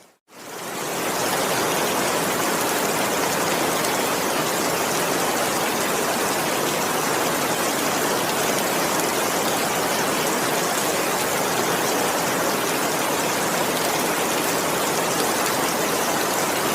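Steady heavy rain with no thunder: after a brief silence at the very start it fades back in within about a second and then holds even.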